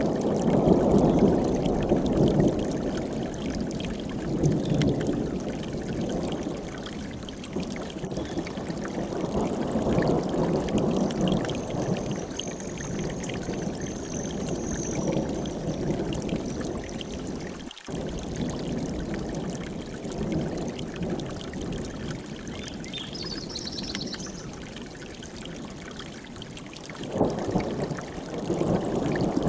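Mountain stream rushing, its sound swelling and easing every few seconds, with a brief high, thin bird call near the middle.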